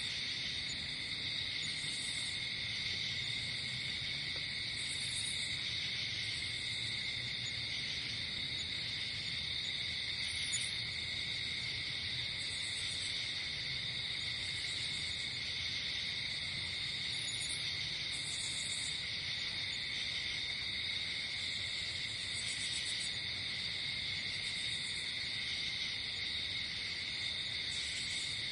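Night insect chorus: crickets trilling steadily, with short high-pitched buzzes from other insects recurring every second or two.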